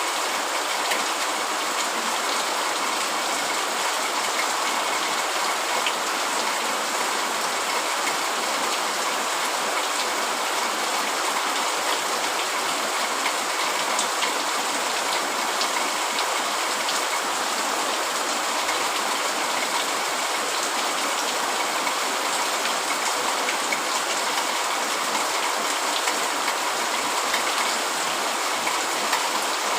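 Heavy rain falling steadily on a tent, a constant even hiss with many scattered drop taps.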